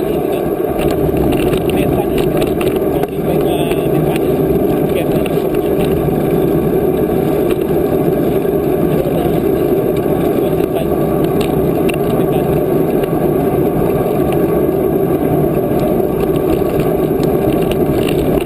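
Steady rushing wind noise on the microphone of a camera carried on a moving bicycle, a loud, even rumble.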